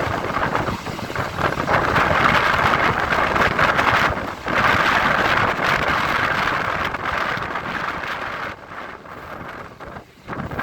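An EMU local train running at speed, with wind rushing over the microphone. The noise drops briefly about four seconds in and fades lower near the end before picking up again.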